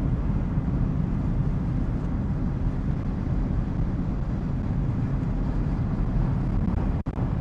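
Steady low rumble of road and engine noise inside a car's cabin driving at highway speed on a snowy road. The sound drops out for an instant near the end.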